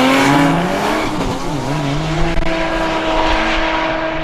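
A modified muscle car's V8 accelerating hard down the drag strip. The engine note drops and climbs again through gear changes in the first two seconds, then holds steady and slowly fades as the car pulls away.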